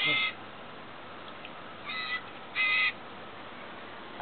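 Young hand-reared bird giving three short calls: one right at the start, then two close together about two seconds in.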